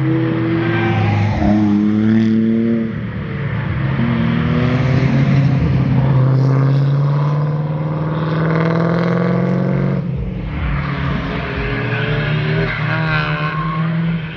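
Cars driving past at speed, engine exhaust revving up through the gears. The pitch climbs steadily and drops back at gear changes, about three seconds in and again about ten seconds in.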